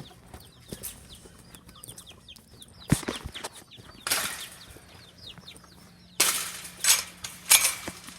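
Chickens peeping and clucking in a steady stream of small, quick, falling calls. A sharp knock comes about three seconds in, and several short bursts of noise follow in the second half.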